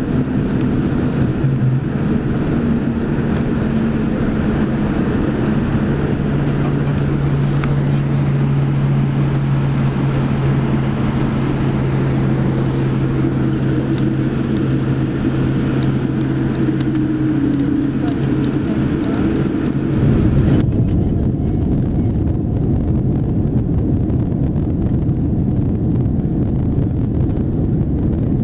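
Steady cabin noise aboard a Boeing 787-9 jet airliner: the engines and airflow make a continuous rumble with a low steady hum. About two-thirds of the way through, the hum stops abruptly and the sound turns duller.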